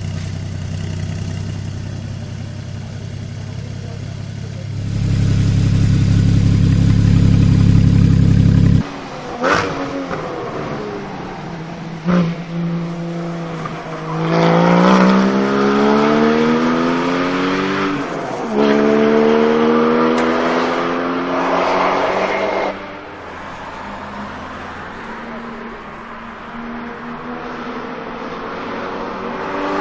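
Porsche Cayman GT4's 3.8-litre flat-six through a Fabspeed valved exhaust. It holds a steady note that swells louder and then cuts off sharply about a third of the way in, followed by a couple of short sharp bursts. It then accelerates hard, rising in pitch through one gear, changes up and rises again before lifting off to a lower, quieter drone.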